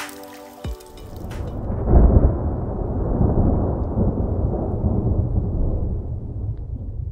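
Music ends in the first second and a half, then steady rain on water with a low rumble sets in, loudest about two seconds in.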